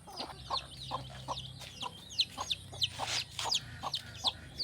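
Chicks peeping in a steady run of short, high, falling chirps, about three a second, with a hen clucking lower in between.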